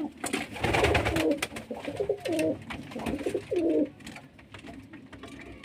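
Domestic pigeons cooing in a run of wavering coos over the first four seconds, mixed with sharp clicks and rustling, then quieter.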